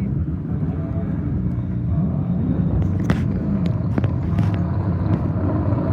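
Muscle car engines (Mustangs and Camaros) running with a deep, steady low rumble at low revs, with a few sharp clicks about halfway through.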